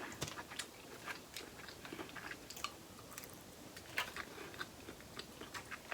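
A person chewing seafood close to the microphone: faint, scattered wet clicks and smacks of the mouth.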